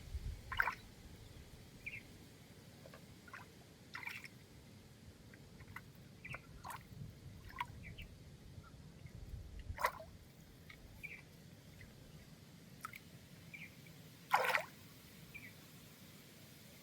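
Scattered water drips and small splashes, short irregular ticks and blips, with one louder splash about fourteen seconds in.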